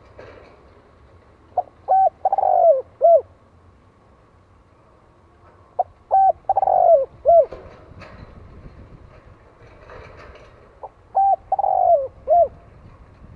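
Male spotted dove cooing its song three times, about four and a half seconds apart. Each phrase is a couple of short coos, a longer falling coo and a short final coo. This is the kind of call played as a decoy to rouse wild males.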